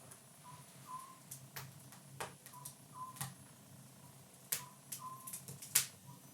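A bird calling a short two-note phrase, the second note a little longer, repeated about every two seconds. Several sharp clicks or pops sound over it, the loudest about two-thirds of the way through.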